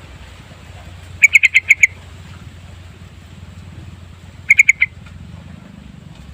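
Yellow-vented bulbul calling: a quick run of about seven clear notes, then a shorter run of four a few seconds later, over steady low background noise.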